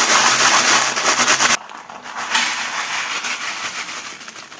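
Crinkling and crackling of a plastic snack packet being handled, loud for about the first second and a half, then quieter.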